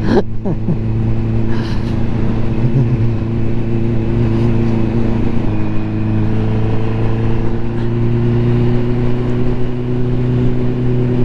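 Ducati motorcycle engine running steadily at cruising speed, heard from the bike with road and wind noise; the note dips briefly about halfway and then creeps slightly higher.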